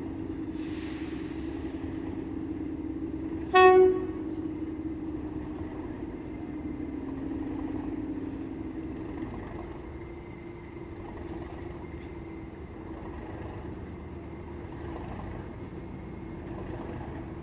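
A Class 97 diesel locomotive's horn gives one short, loud toot about three and a half seconds in. Under it runs a steady low two-toned drone that fades away around nine seconds in.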